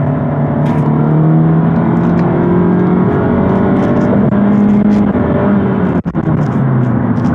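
2017 Honda Civic EX's 2.0-litre naturally aspirated four-cylinder under full-throttle acceleration through its CVT, heard from inside the cabin: a steady engine drone whose pitch climbs slowly as the revs are held. About five seconds in the revs drop back, and the sound briefly cuts out around six seconds.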